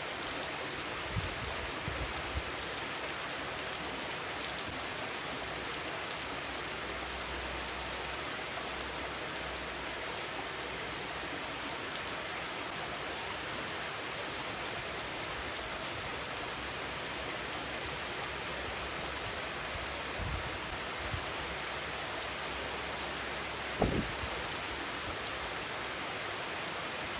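Steady rain falling, an even hiss of drops on surfaces, with a few brief low thumps, the clearest one near the end.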